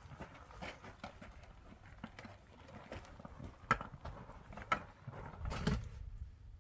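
Irregular light knocks and clatter of hand work on building materials, with two sharper knocks about four and five seconds in and a duller thump near the end.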